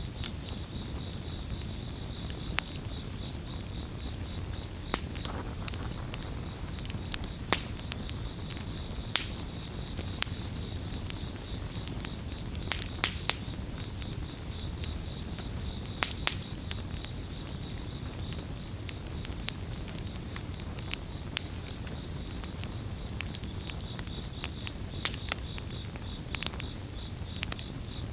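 Campfire crackling, with sharp pops at irregular moments over a low rumble of burning wood. A cricket chirps in a fast, even, high-pitched pulse that drops out now and then and comes back.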